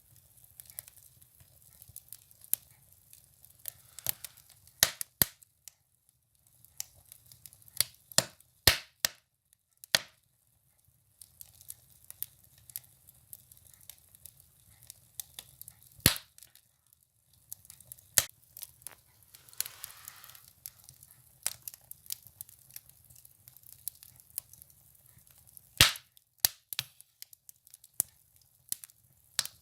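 Firewood burning in a wood stove, crackling with irregular sharp pops and snaps over a faint hiss, a few pops much louder than the rest.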